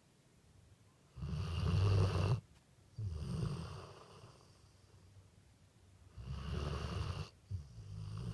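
Dog snoring: four snores in two pairs, the loudest about a second and a half in, with a quiet pause of a couple of seconds between the pairs.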